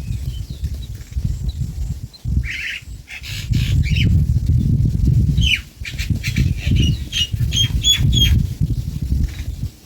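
Small bird chirping in many short high calls, thickening into quick series after a couple of seconds, over a loud low rumbling noise.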